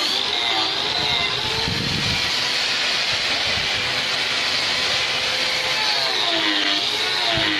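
Sawmill machinery running steadily, a continuous mechanical hum with a hissing band above it.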